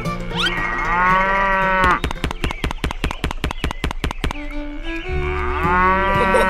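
A cow mooing twice, each a long drawn-out call, with a quick run of sharp clicks, about six a second, between the two moos, over steady background music.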